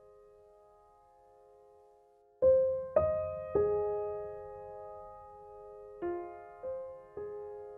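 Slow, quiet piano music: faint held notes fade, then a run of three struck chords about two and a half seconds in, each ringing away, followed by three softer notes near the end.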